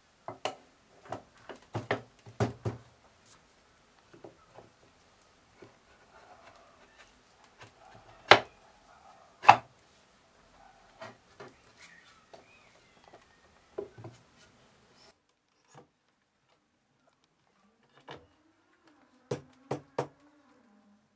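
Heavy beech workbench parts being handled and set down on a wooden bench: irregular knocks and clunks of wood on wood, with two loud knocks a little before the middle and a quick group of knocks near the end.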